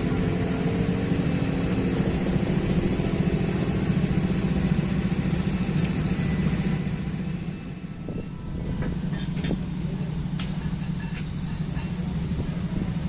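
Heavy construction machine's diesel engine running steadily with a low hum, easing off about seven seconds in. A few short sharp knocks follow in the second half.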